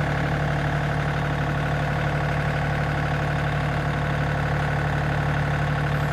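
Engine idling steadily at an even pitch, with no revving.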